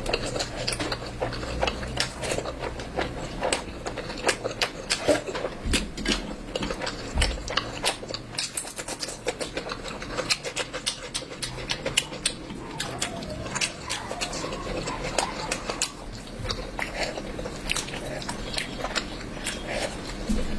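A person chewing and biting curry close to the microphone, with frequent irregular mouth smacks and small clicks.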